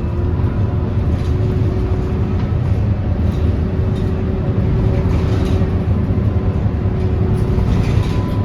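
Scania K230UB Euro 5 city bus running, a steady low rumble with a faint whine over it.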